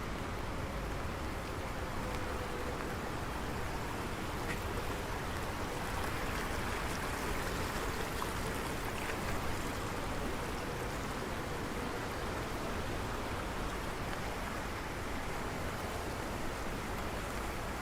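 Steady rain with rushing water, an even hiss that holds at one level throughout.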